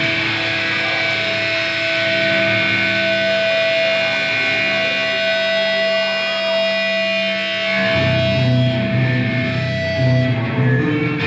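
Amplified electric guitar ringing on a long held tone at a live grindcore show, with low bass notes coming in about eight seconds in.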